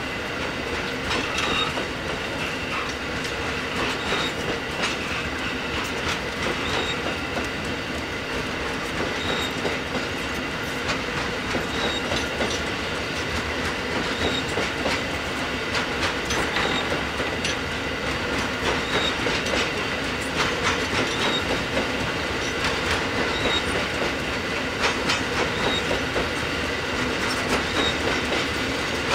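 Narrow-gauge grain hopper wagons rolling past at speed, wheels clicking over the rail joints in a continuous clickety-clack that quickens a little as the train accelerates. A short high squeal comes around every two seconds.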